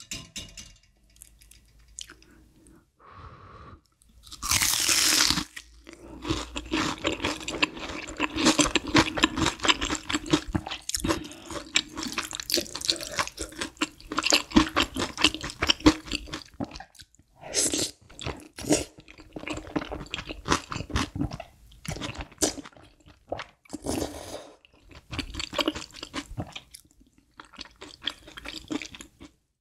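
Close-miked eating: a loud crunching bite into a deep-fried breaded cheese pork cutlet about four seconds in, followed by some ten seconds of crunchy chewing. After that come quieter, intermittent bites and chewing as thick udon noodles are eaten.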